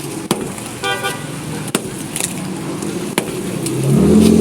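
Hammer strikes, three sharp blows about a second and a half apart. A brief horn beep comes about a second in, and a vehicle engine revs up near the end, becoming the loudest sound.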